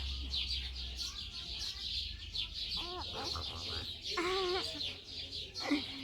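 Chickens clucking, with a few short pitched calls about halfway through, over a constant dense high-pitched chirping.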